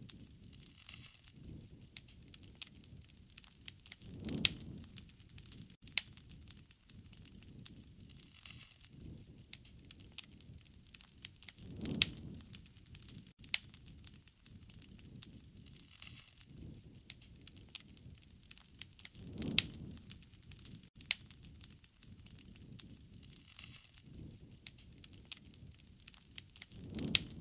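Wood fire crackling, with frequent sharp pops and snaps and a low rush of flame that swells about every seven to eight seconds.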